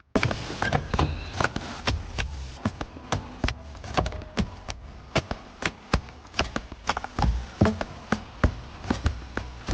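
A run of sharp, irregular taps and knocks, a few a second, over a low rumble.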